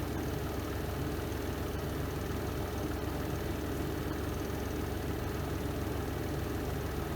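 The spin drum of a Renova semi-automatic twin-tub washing machine spinning at a steady speed: an even, unchanging hum, heaviest in the low range.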